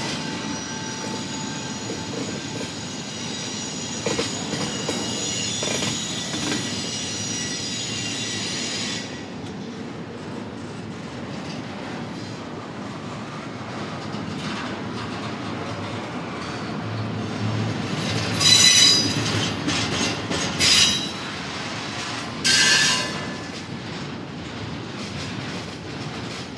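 Freight train's intermodal cars rolling past on steel rails. For the first nine seconds or so the wheels squeal in several high tones at once, and near the end three short, louder squeals stand out over the rolling.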